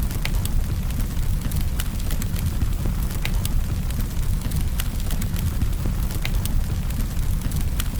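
Campfire burning with a steady low rumble of flames and irregular sharp crackles and pops of burning wood.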